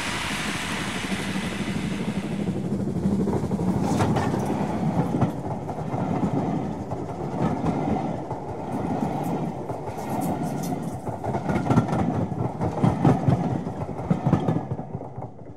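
Railway carriages rolling past, a steady rumble with wheels clicking and clattering over the rail joints, fading away near the end.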